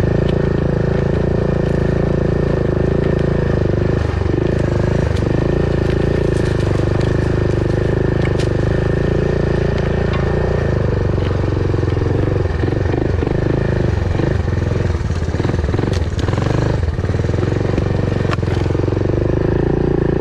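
A vehicle's engine running steadily while driving, with scattered rattles and knocks, mostly in the second half.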